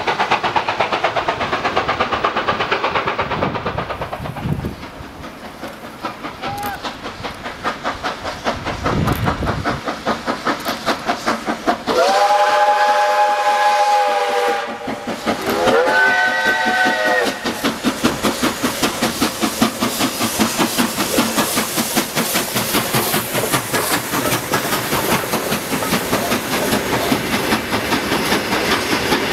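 Steam locomotive running with a fast, even rhythmic beat, sounding its whistle twice about halfway through: a steady blast of a couple of seconds, then a shorter one that slides up in pitch before holding.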